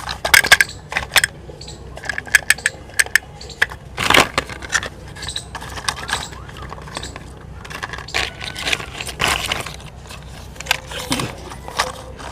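Toys being handled, clicking and clattering irregularly with sharp knocks, one louder about four seconds in.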